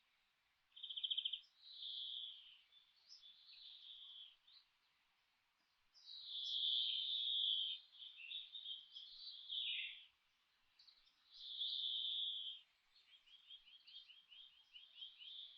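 Songbirds singing in phrases of bright whistled notes with short pauses between them, including a quick trill about a second in and a run of rapid repeated notes near the end.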